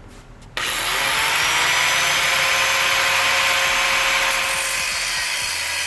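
Power tool cutting through the steel exhaust pipe at the catalytic converter: a loud, steady, hissing cutting noise that starts about half a second in, its motor tone briefly rising as it spins up.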